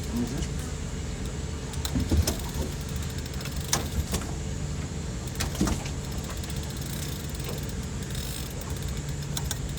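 Boat motor running at a steady idle, a low even hum, with a few light clicks or knocks around the middle.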